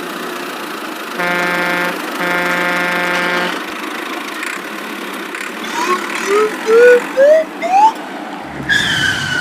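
Cartoon vehicle sound effects: a motor running steadily, a horn honking twice, about a second in and again at two seconds. After that comes a run of short rising slide-whistle notes, each pitched higher than the last, and near the end a longer falling whistle.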